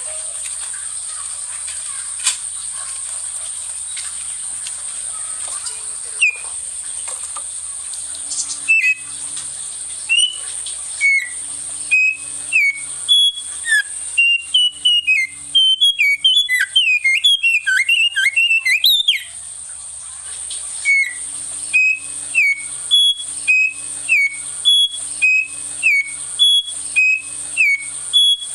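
A small local songbird, one said to sing like the wambi mini, singing. It gives scattered sharp chirps, then a fast burst of downward-slurred whistled notes about halfway through, then a steady series of short whistled notes about one a second, all over a constant high hiss.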